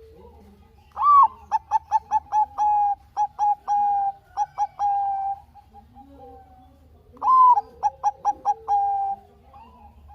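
Zebra dove (Bangkok perkutut) singing its cooing song twice: each bout opens on a higher note, then runs into a quick string of short coos and ends on a few longer held notes.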